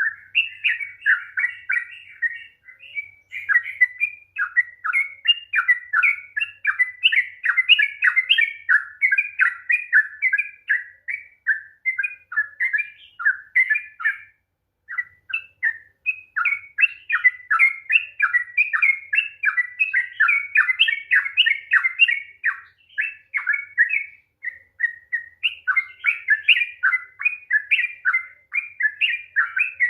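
Yellow-vented bulbul (trucukan) singing a long, rapid run of chattering, warbling notes, with a brief break about halfway through.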